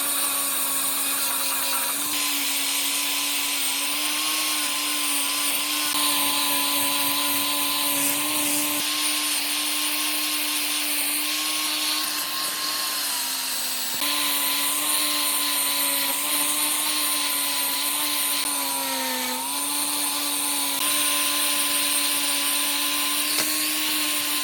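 A small electric power tool's motor running with a steady high whine. Its tone shifts abruptly several times, and its pitch sags briefly near the end as it takes load.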